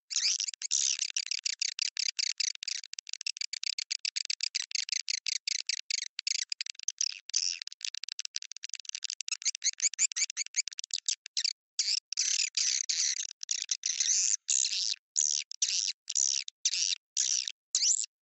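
Swiftlet lure call: recorded edible-nest swiftlet twittering, a rapid train of short, high chirps with brief gaps between them. It is played to attract swiftlets into a nesting house.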